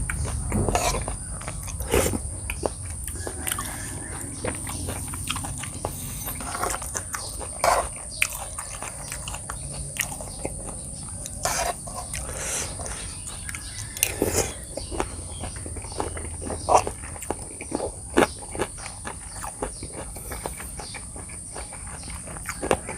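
A person eating close to the microphone: chewing and crunching mouthfuls of salad and fresh vegetables, with irregular wet mouth smacks and clicks. A steady high insect buzz runs underneath.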